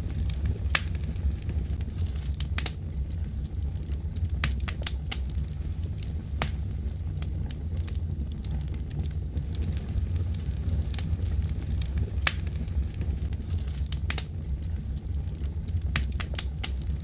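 Fire crackling: irregular sharp pops and snaps, a few per second, over a steady low rumble.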